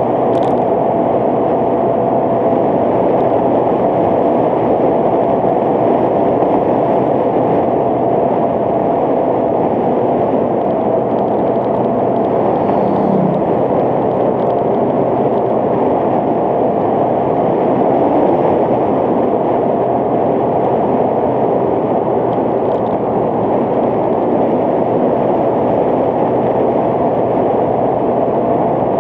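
Motorcycle cruising at a steady speed: wind rushing over the low-mounted camera's microphone, with the engine's steady drone and road noise underneath and no change in pace.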